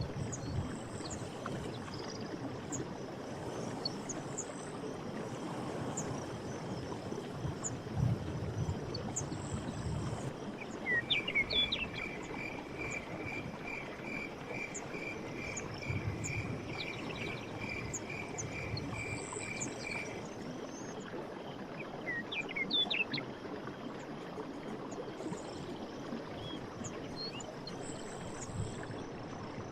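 Running stream water with birds calling over it. Short high chirps come and go throughout, and in the middle one bird repeats a single clear note about twice a second for around eight seconds.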